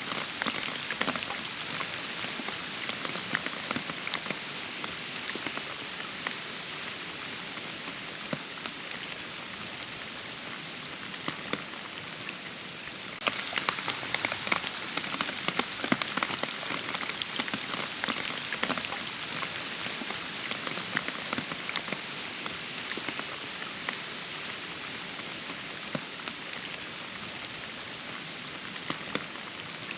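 Steady rain falling, with many distinct drops ticking through the hiss; it suddenly gets louder a little under halfway through.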